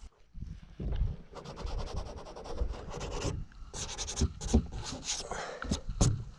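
Irregular rubbing and scraping strokes on an inflatable boat's hull while its scratches are being patched.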